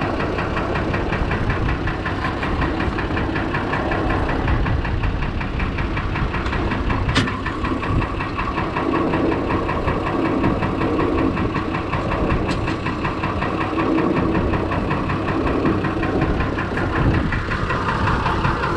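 Six-cylinder Perkins diesel engine in a Fordson Major tractor idling steadily with an even diesel clatter. Two sharp clicks sound over it, about seven and twelve and a half seconds in.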